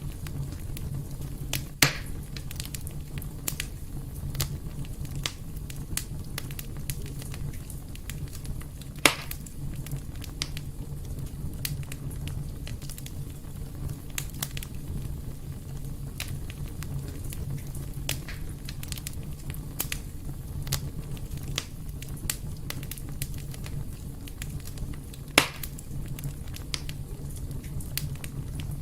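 Fire burning in a fireplace, crackling with frequent small clicks over a steady low rumble. Three louder pops stand out: about two seconds in, around nine seconds, and near the end.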